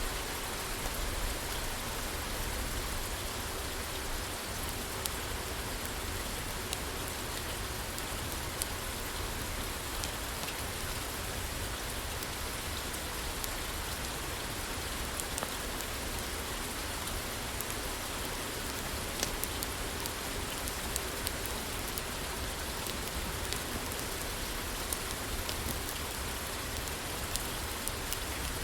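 Steady rain falling on a roof, with a wood fire crackling in a fireplace: scattered sharp clicks and pops over the even hiss of the rain.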